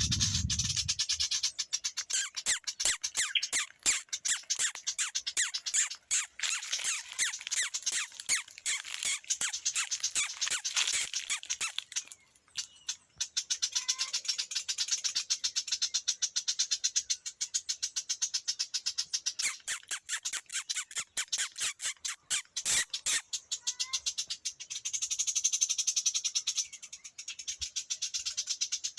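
A bird calling in long runs of rapid clicking, rattling notes over a high hiss, broken by short pauses.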